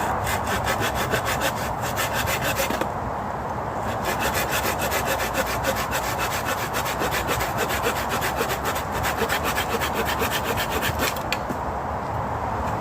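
Hand saw cutting through wood in quick, even back-and-forth strokes, several a second. The sawing pauses for about a second near the three-second mark, then runs on and stops shortly before the end.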